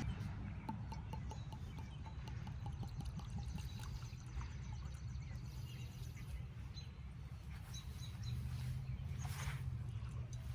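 6.0-litre LS V8 swapped into a Chevrolet S10, idling steadily with a low, even hum. Birds chirp faintly over it.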